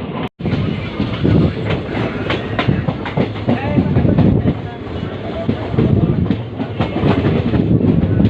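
Indian Railways train running along the track: a continuous rumble with wheels clattering over the rails. The sound cuts out for an instant just after the start.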